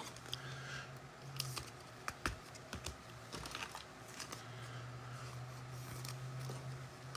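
Faint rustling and scattered light clicks of trading cards and foil pack wrappers being handled, over a low steady hum.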